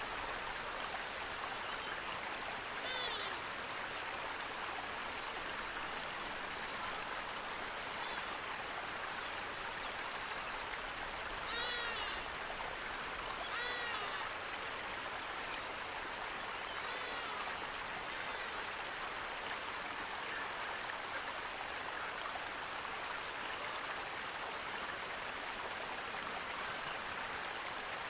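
Steady rush of flowing water from a stream or waterfall, with a few short bird calls about three, twelve, fourteen and seventeen seconds in.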